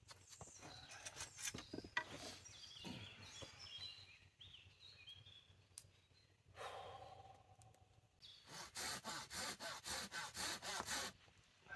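Quiet rustling and handling sounds, then near the end a run of quick, even strokes, about five a second for nearly three seconds, like hand tool work on wood such as sawing or scraping.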